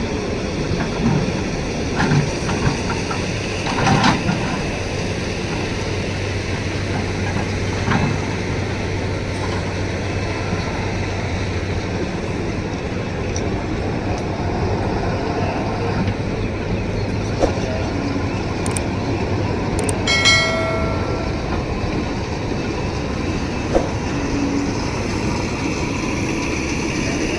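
Tata Hitachi 200 excavator working with its diesel engine running steadily, and occasional metallic clanks from the bucket and arm. A brief pitched tone sounds about 20 seconds in.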